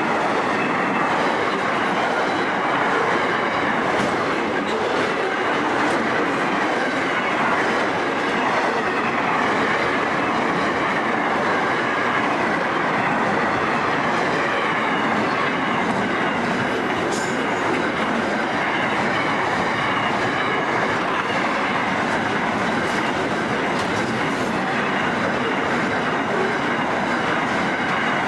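Boxcars and container wagons of a long freight train rolling past close by: a steady noise of steel wheels on rail, with occasional clicks and a faint high ringing.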